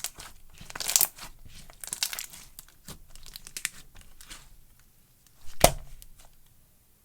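Slime being stretched and pulled by hand, crackling and tearing in short bursts, with one sharp crack a little before the end.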